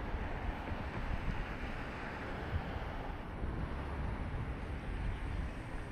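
Steady outdoor street ambience: a low rumble of traffic with wind on the microphone.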